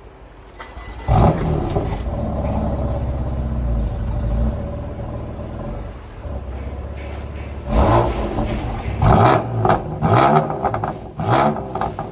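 BMW M4's twin-turbo straight-six starting with a loud flare about a second in, then idling and easing down. In the last few seconds it is revved in four short, sharp blips.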